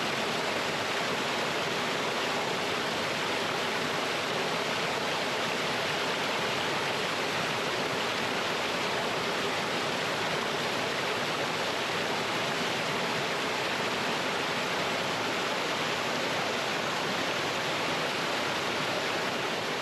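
Mountain stream pouring over rocks in a small waterfall: a steady, even rush of water.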